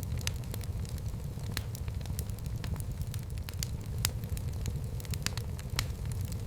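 Fire burning in a fireplace: a steady low rumble of flames with sharp crackles and pops at irregular intervals, several every second.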